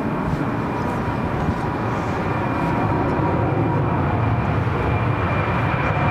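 Jet airliner's engines passing low on landing approach: a steady roar with a thin high whine, growing slightly louder.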